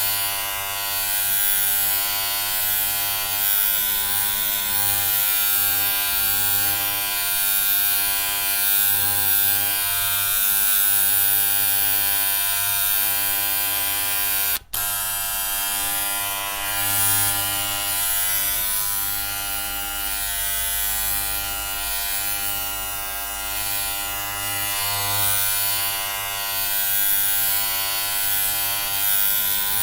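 Electric hair clippers buzzing steadily, with one sudden brief cut-out about halfway through.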